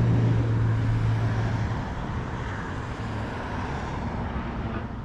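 A passing engine: a steady low hum that fades after about two seconds, leaving an even rushing noise with a low rumble.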